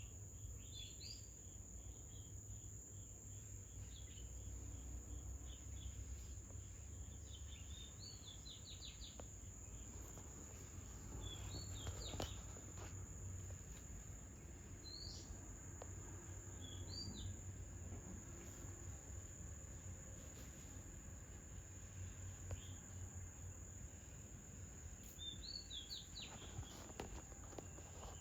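Faint outdoor ambience: a steady high-pitched insect drone, with short bird chirps in small clusters scattered through it and a low wind-like rumble underneath.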